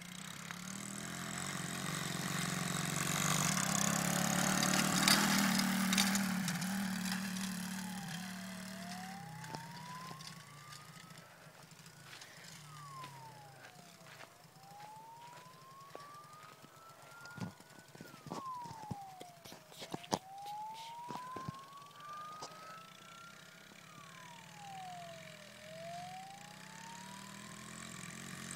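Siren wailing: a single tone that climbs slowly and drops quickly, repeating about every five and a half seconds, over a low steady hum. It is preceded by a rushing noise that swells and fades over the first several seconds, and a few sharp clicks come in the middle.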